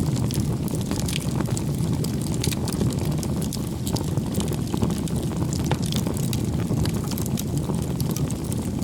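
Wood fire burning, a steady low rush of flame with frequent sharp crackles and pops scattered throughout.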